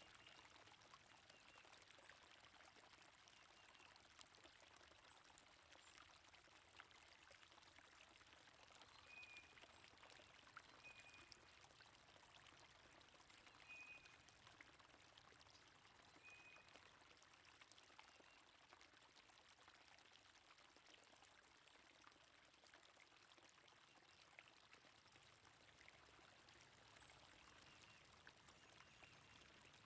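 Faint, steady flowing water, a stream or brook running, with a few short bird chirps in the middle stretch.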